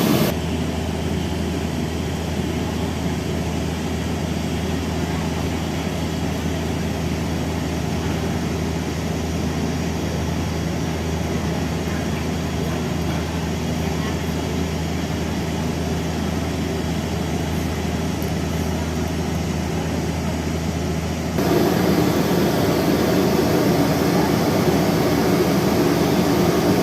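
Steady engine-like hum with a low drone and a mix of background noise, no beat or rhythm; it steps up louder about 21 seconds in.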